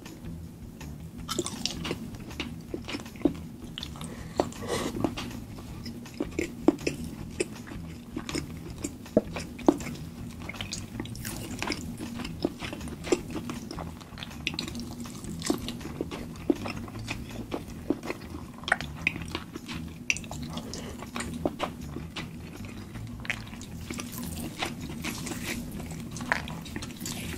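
Chewing and biting into cooked chicken close to the microphone, with many small irregular clicks and crunches.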